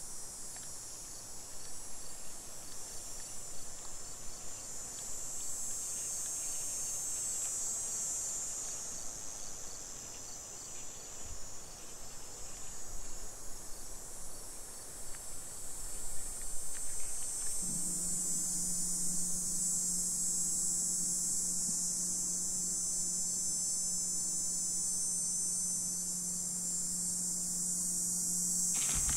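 A steady, high-pitched chorus of insects trilling outdoors. About two-thirds of the way in, a steady low hum starts up underneath it.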